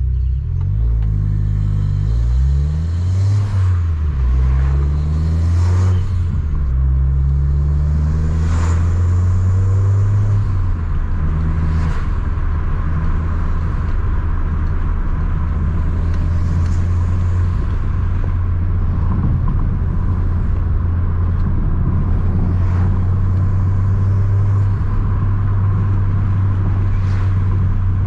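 Abarth 595 Competizione's turbocharged 1.4-litre four-cylinder through a full 60 mm aftermarket exhaust, its pitch rising and falling several times in the first ten seconds as it revs and changes gear, then running at a steady low drone.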